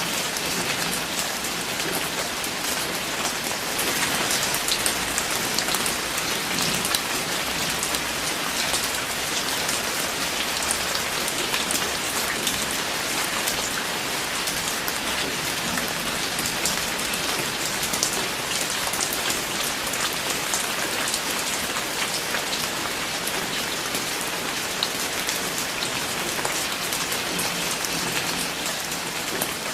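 Steady rain falling, a dense hiss of many small drop ticks on a surface.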